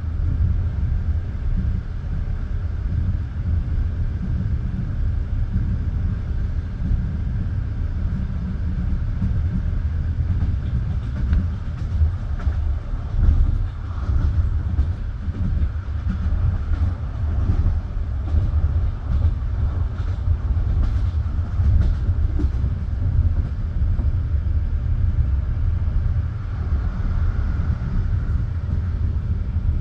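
Passenger train running at speed: a steady low rumble of steel wheels on the rails, with a run of sharp wheel clicks and knocks in the middle stretch.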